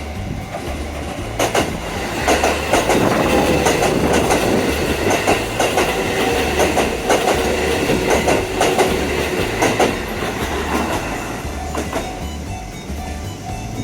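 Shin-Keisei Line electric train passing, its wheels clicking over rail joints. The sound swells about two seconds in and fades after about ten seconds.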